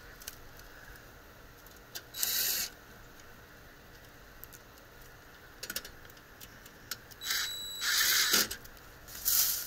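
A few short rustling bursts in dry leaves with small clicks of metal parts being handled, as dropped screws are searched for among leaves.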